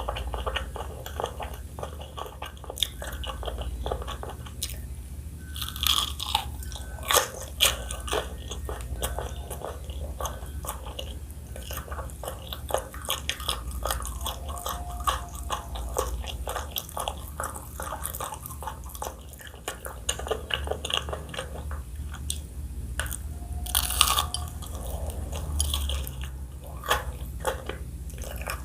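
Close-miked eating sounds: biting into and chewing crunchy food, with frequent sharp crunches and crackles, a few louder bites standing out.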